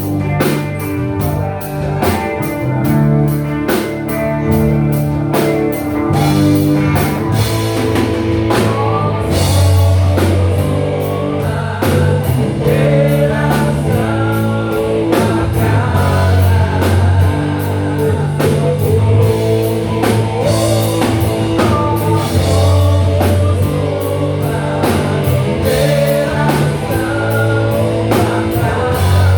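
Live rock band playing: drum kit keeping a steady beat, bass and electric guitar, with a singer's voice over it.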